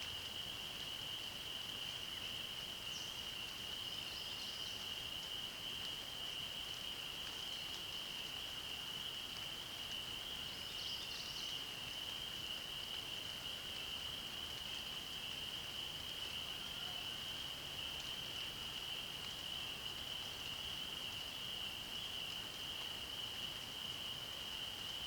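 A steady, unbroken high-pitched chorus of calling frogs, blended into one continuous trill. A few short, faint bird notes come through above it, about three, five and eleven seconds in.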